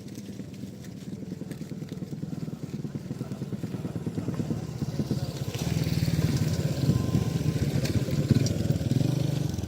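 A small engine running with a fast, even putter, getting louder about five seconds in.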